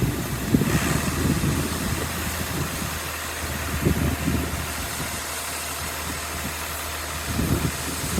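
An engine running steadily with a low, even hum, overlaid by uneven low rumbles in the first few seconds and again near the end.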